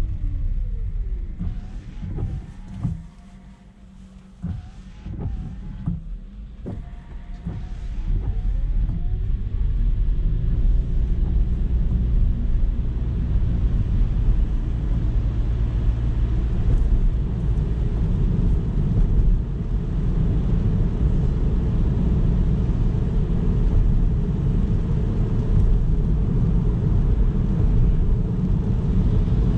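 A car's road and engine noise while driving: quieter for the first several seconds, with a few gliding tones, then building from about eight seconds in to a steady low rumble at speed.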